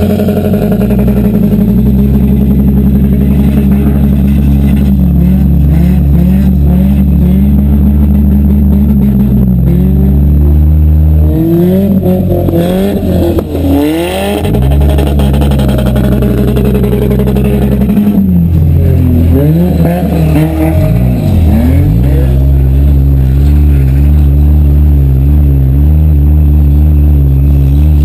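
Demolition derby car's engine running loud at a steady pitch, the revs dropping and climbing back twice, about ten and twenty seconds in.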